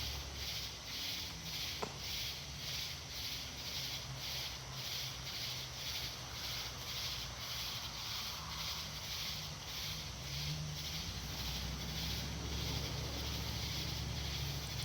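Night insects chirping in a steady rhythm, about two high-pitched pulses a second, over a steady low hum.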